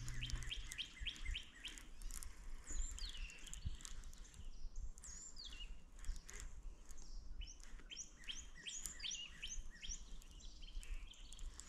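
Songbirds chirping and singing, in quick runs of short, falling chirps, with pauses between the runs.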